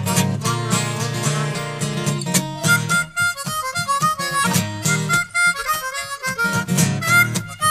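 Blues harmonica playing a solo of held, bending notes over a steadily strummed acoustic guitar, in an instrumental break of the song.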